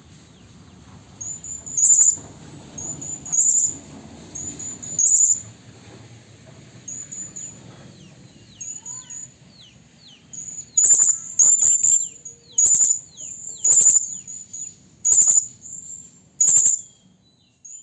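Serindit (hanging parrot) calling: sharp, very high-pitched call notes repeated at irregular intervals, coming more often in the second half, with a few faint falling whistles in between. It is a lure call, a female serindit calling to draw in males.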